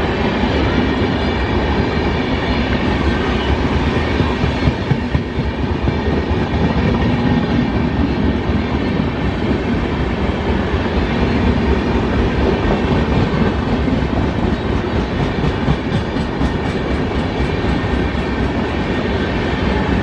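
A train running past at speed: a steady, loud rumble of wheels on rail, with a run of rhythmic clacking over rail joints near the end.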